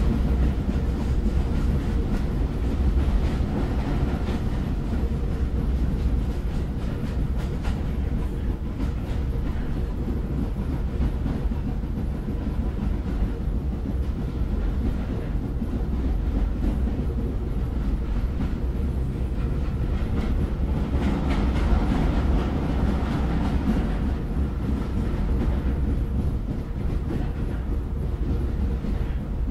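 Train running on the rails after leaving the station: a steady, low rumble, swelling slightly about two-thirds of the way through.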